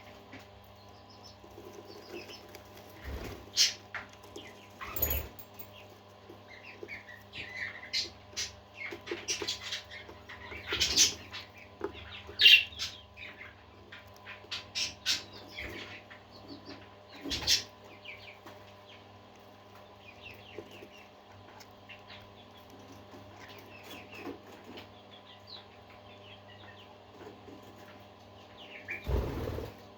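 Parakeets chirping and chattering, many short high calls that are busiest in the first half, with a few short low thumps over a steady low hum.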